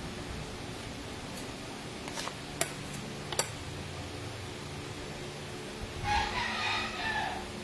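A rooster crows once, a call lasting just over a second near the end. A few sharp clicks come before it, over a steady background hum.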